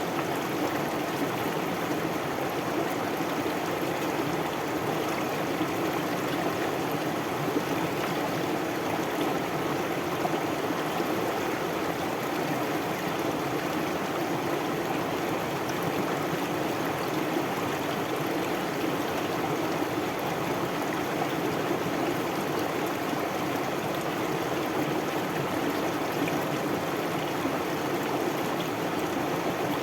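A stream of water flowing steadily, an even, unbroken rush.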